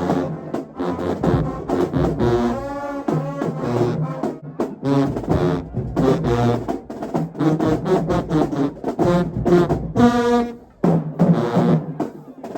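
Marching band brass playing a loud tune in short, punchy chords over a low brass bass line, with a brief break about eleven seconds in.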